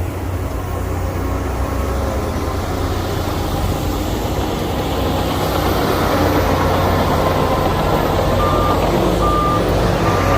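Heavy diesel earthmoving machine's engine running with a steady low rumble, growing a little louder. Near the end a reversing alarm beeps three times, about a second apart.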